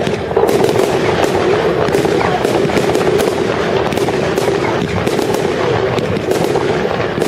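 Fireworks going off: a dense, continuous run of rapid bangs and crackles with no break.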